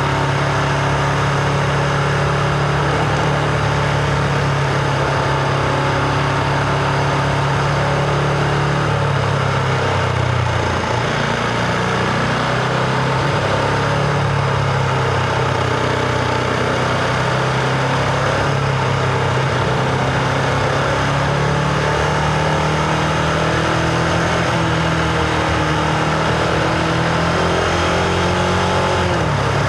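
Husqvarna Vitpilen 701's single-cylinder engine running while the motorcycle is ridden, with wind and road noise. The engine pitch drops about nine seconds in, settles a little later, and changes again near the end.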